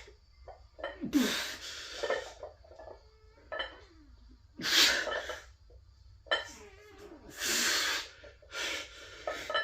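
A man breathing hard and forcefully during a weight-lifting set, in sharp hissing breaths every second or two.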